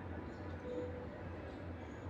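Steady low rumble of wind moving through trees, with faint, short, high bird chirps over it.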